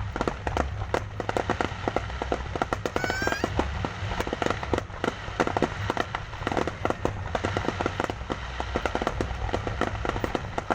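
Fireworks going off in a dense, rapid crackle of many small bangs and pops, with a short rising whistle about three seconds in.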